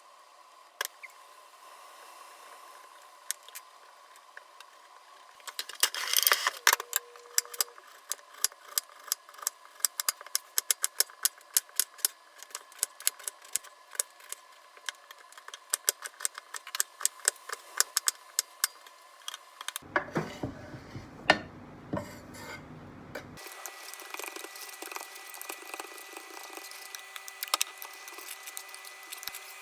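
Drawing and colouring supplies clicking and clattering: many light, irregular taps of small hard objects being handled and set down.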